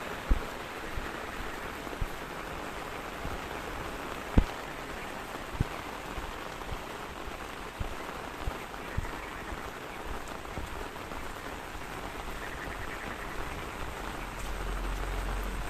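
Steady rain falling, with scattered heavier drops landing as short low thuds. A low rumble comes in near the end.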